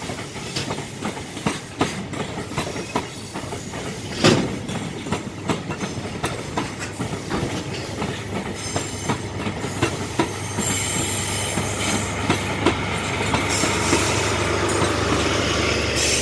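Freight container wagons rolling slowly through a yard, their wheels clacking irregularly over rail joints, with one louder knock about four seconds in. From about ten seconds in, the engine of the DE10 diesel-hydraulic shunting locomotive pushing them adds a steady drone that grows louder as it comes near.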